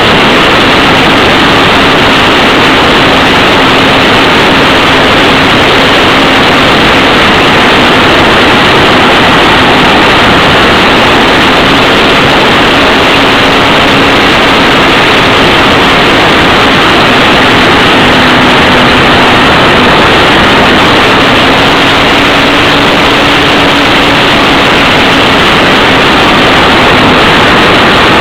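Loud, steady rush of wind and propeller noise from a ParkZone F4U Corsair electric RC model plane in flight, heard close up as if from a camera on board. Under it a faint motor hum wavers slightly in pitch.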